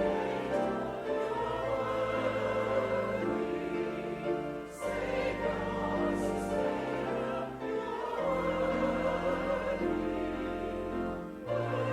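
Choir singing slow, sustained chords over held bass notes, with the chords changing every couple of seconds.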